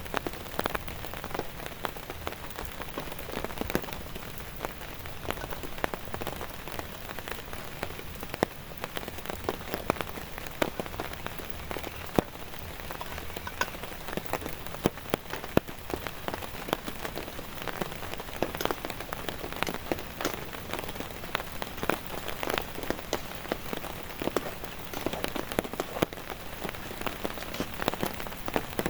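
Heavy rain falling steadily, with many sharp individual drop hits standing out against the continuous wash.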